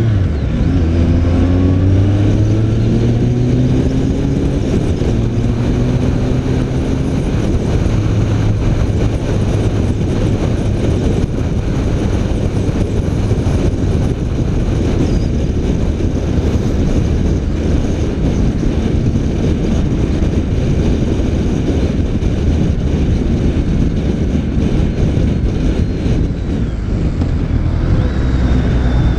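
BMW K1300 R's inline-four engine running at cruise during a ride, under heavy wind and road rush. The engine note eases down just after the start, then holds steady.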